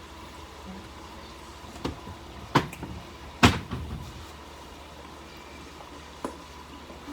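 Kitchen clatter: a handful of sharp knocks and clunks of things being handled and set down, the loudest two about two and a half and three and a half seconds in, over a steady low hum.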